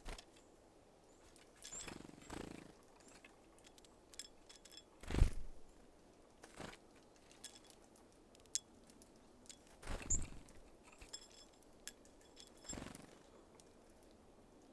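Small birds at a seed feeder: several short soft thumps and flutters, the loudest about five seconds in, with scattered light clicks and a few faint high chirps.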